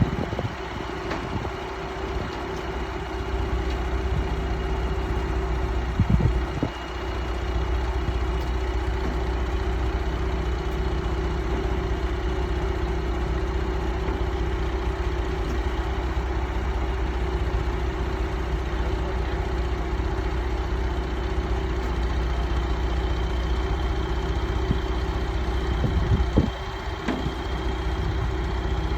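Engine of heavy machinery running steadily at a low, even speed, with a short louder disturbance about six seconds in and another near the end.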